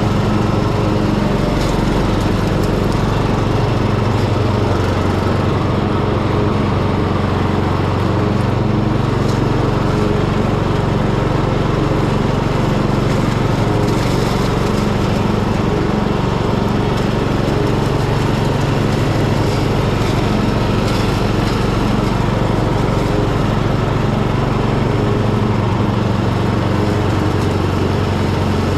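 Hecht ride-on garden tractor's engine running steadily with the mower deck working through tall overgrown grass; the engine note dips slightly a couple of times as it takes load.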